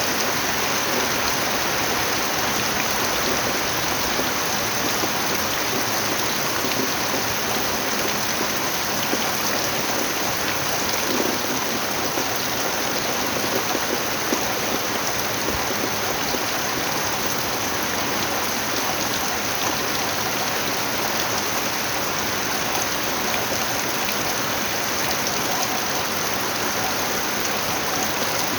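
Steady, heavy rain: a dense even hiss of rainfall with a few faint drop ticks.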